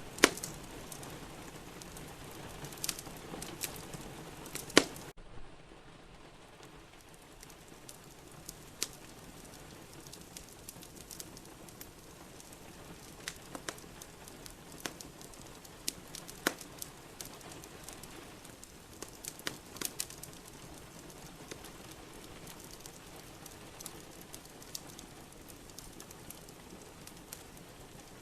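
Fireplace wood fire crackling, with irregular sharp pops, over a steady hiss of rain. About five seconds in, a loud pop comes and the background hiss suddenly drops lower.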